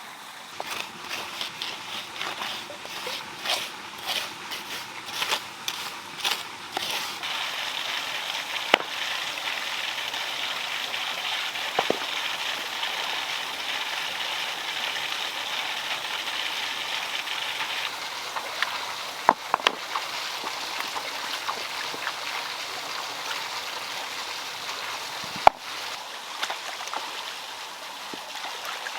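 Water running and splashing steadily, with scattered sharp clicks and knocks, thickest in the first few seconds.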